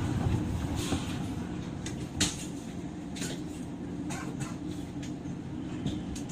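Cabin sound of a JR 103-series electric train: a steady low hum with a handful of sharp clacks, the loudest about two seconds in.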